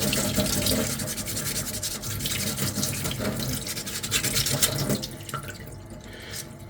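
Sandpaper rubbed in quick back-and-forth strokes over a small puttied armour ring, a dense scratchy hiss, eases off about five and a half seconds in. This is the final touch-up pass with fine grit.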